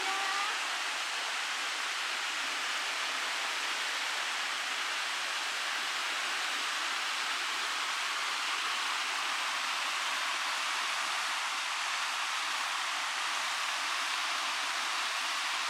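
Steady rushing noise with no beat or pitch, even throughout.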